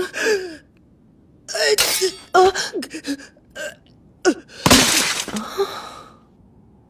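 A character's short gasps and strained vocal sounds, several separate ones sliding down in pitch, with a louder breathy burst about five seconds in.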